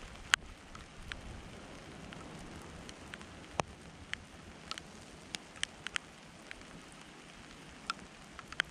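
Steady rain falling, with individual raindrops tapping sharply and irregularly close by, the loudest just after the start.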